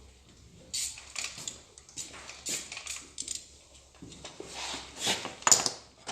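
Hand tools clinking and scraping against metal engine parts in a series of irregular clicks, the sharpest a ringing metallic click about five and a half seconds in.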